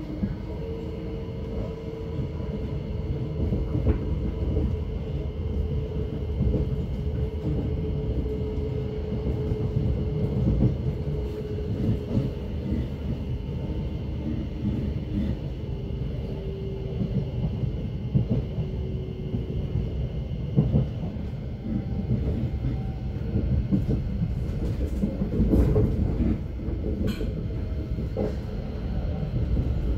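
Thameslink electric train running, heard from inside the carriage: a steady low rumble from the wheels and running gear, with a motor whine that slowly falls in pitch over the first two-thirds. A few sharp clicks come through near the end.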